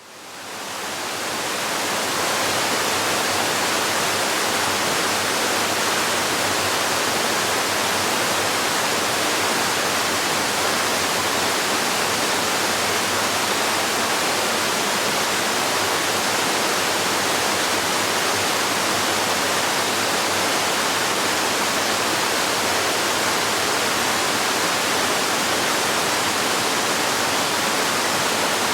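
Waterfall splashing and rushing as a steady, even roar of falling water, fading in over the first two seconds.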